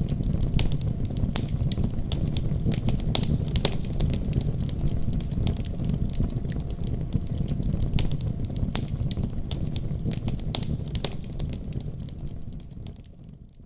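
Wood fire burning in a fireplace: a steady low rumble with frequent sharp crackles and pops. It fades out near the end.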